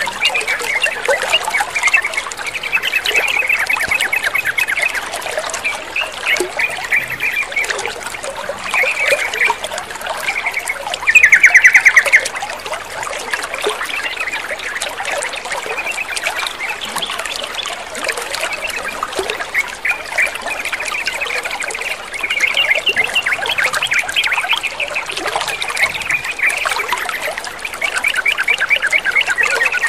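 Yellow-vented bulbuls (trucukan) calling in quick chattering phrases over steadily trickling water. The loudest is a rapid, buzzy trill about eleven seconds in, lasting about a second.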